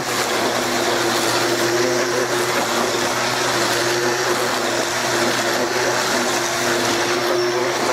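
Black & Decker electric string trimmer with a mower-deck attachment running steadily while cutting grass: an even motor whine over the hiss of the spinning line through the grass.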